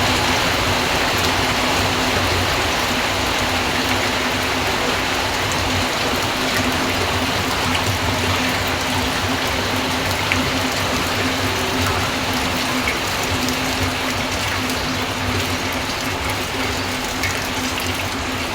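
Steady rain falling and splashing, an even hiss that stays constant throughout.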